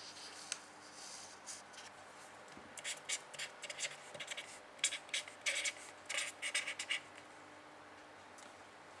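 Writing by hand: a quick run of short scratchy pen strokes for about four seconds, starting about three seconds in.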